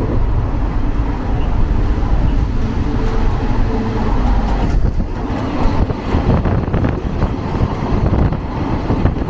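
Indian Railways sleeper-class coach running at speed, heard from inside: a loud, steady low rumble, with irregular clanks and knocks in the second half.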